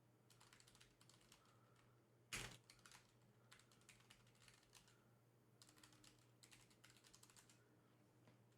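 Faint computer keyboard typing, scattered clicks in short runs, with one louder click about two and a half seconds in; otherwise near silence.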